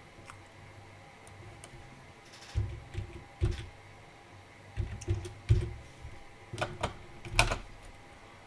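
Light metal knocks and clicks as a steel sine bar is handled and tipped back on a lathe's compound rest. They come in three short clusters: about two and a half seconds in, around five seconds, and near seven seconds.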